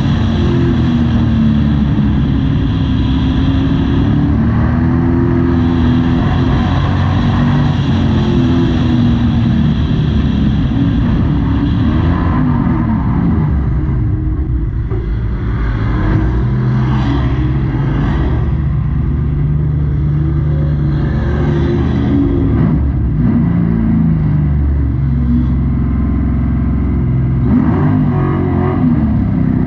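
Race truck's engine heard from inside the cab, running hard and rising and falling in pitch as it revs up on the straights and backs off into the turns, with a brief easing about halfway through.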